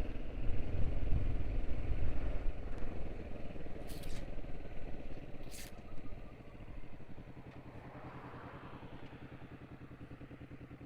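Motorcycle engine running while riding, with heavy low rumble in the first seconds; about six seconds in it drops to a quieter, steady, evenly pulsing engine beat. Two short sharp clicks sound near the middle.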